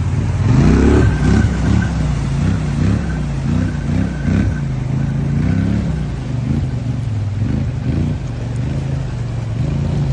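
Engine of a Polaris off-road vehicle revving, its pitch rising sharply about half a second in and then rising and falling repeatedly as the throttle is worked.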